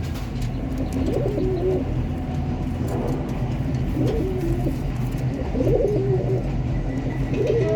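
Domestic pigeons cooing, a few separate coos over a steady low hum.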